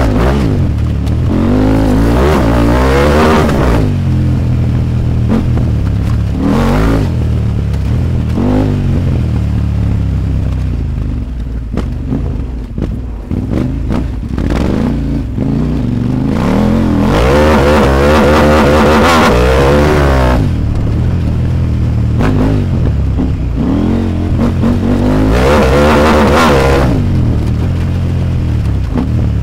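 KTM 890 Adventure R's parallel-twin engine heard from on board under hard acceleration, the pitch climbing and dropping back again and again as it revs up and shifts through the gears. It eases off for a few seconds about midway before pulling hard again.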